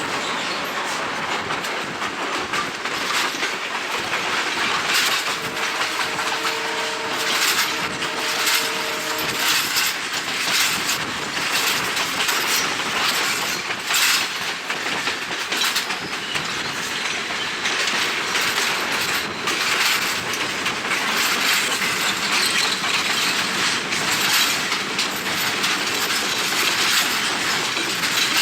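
Passenger train running at speed, its wheels clattering over the rail joints in an irregular clickety-clack, with wind rushing over the microphone from the open window.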